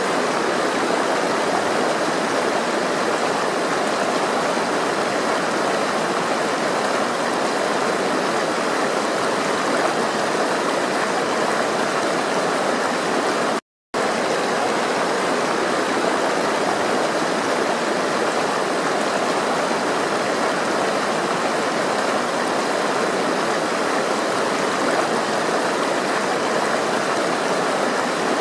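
Steady rushing of flowing water, broken once about halfway through by a short gap of silence where the recording loops.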